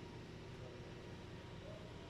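Faint, steady background hum and hiss with no distinct event.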